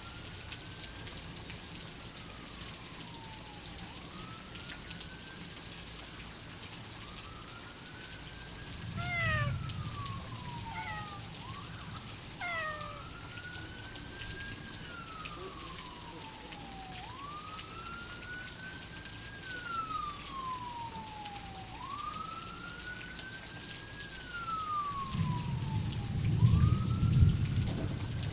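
Steady rain with a siren wailing, its pitch slowly rising and falling every few seconds. Thunder rumbles low about nine seconds in and again, louder and longer, near the end.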